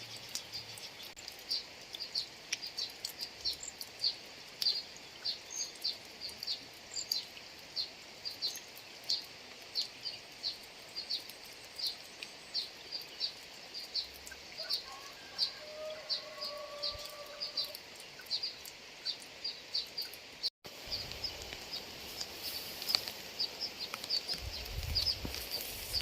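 Rice-field ambience: a small creature's high chirp repeating about twice a second over a steady faint hiss, with a short whistled call about halfway through. The sound cuts out for an instant past the middle, and a low rumble rises near the end.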